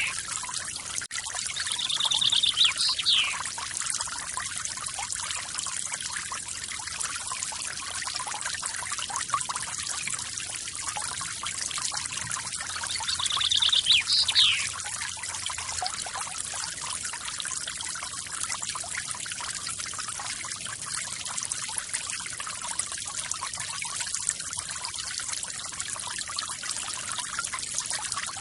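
Forest waterfall: steady splashing and pouring water. A bird calls twice, about two seconds in and again near the middle, each time a short buzzy trill ending in a quick swooping note.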